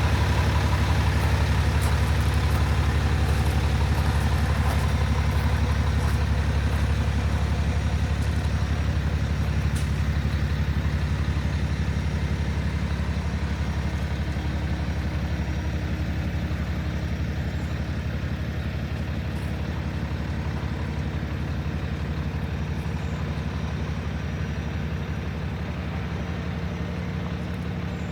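Paccar PX-9 inline-six diesel engine of a Kenworth T370 truck idling steadily, slowly growing quieter over the stretch.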